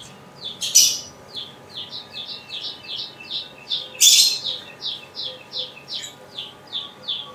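A small bird chirping over and over in short falling notes, about three a second, with two louder, harsh bursts about a second and about four seconds in.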